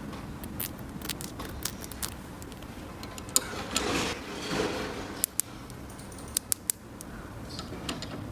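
Small plastic toy pieces being handled: scattered light clicks and taps, with a brief sliding, scraping rustle in the middle.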